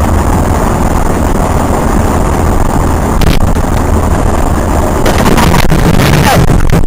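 Loud, overloaded rumble of a car on the move, heavy in the low end, with a few sharp clicks and knocks in the second half.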